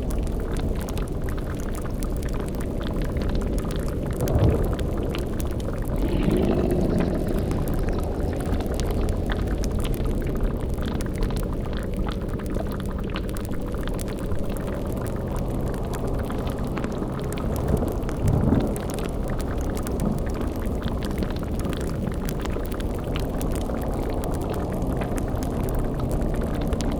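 Dark sound-effect ambience: a steady low rumbling drone under the bubbling of a boiling cauldron. A few short, deeper swells rise out of it about four, six and eighteen seconds in.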